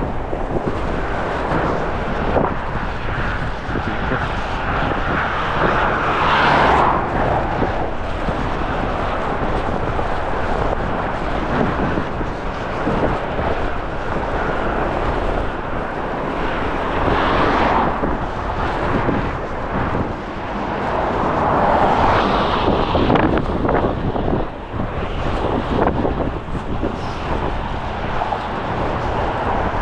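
Strong gusty wind rumbling on the microphone over steady road traffic noise, with three louder swells of passing vehicles, about six seconds in, at about seventeen seconds and at about twenty-two seconds.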